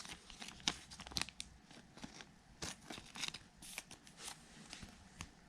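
Baseball trading cards and their foil pack wrapper being handled: a string of faint, irregular crinkles, ticks and flicks as the cards are shuffled through.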